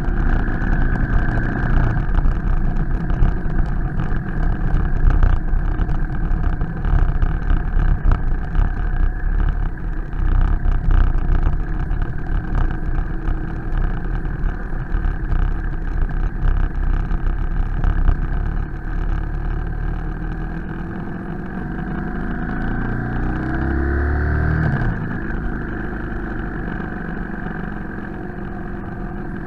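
BMW R 1250 GS Adventure's boxer-twin engine running while riding up a cobbled street, heard from a camera on the bike with a rough, rattly wash of road and wind noise. About three quarters of the way through, the engine note rises steadily as the bike accelerates.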